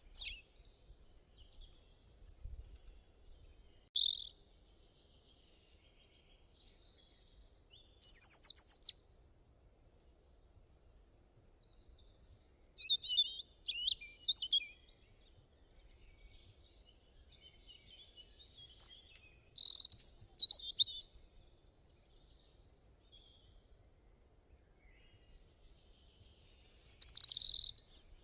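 Birds singing in short separate phrases of high chirps and trills every few seconds, with quiet between them. One phrase, at about eight seconds, is a quick falling trill.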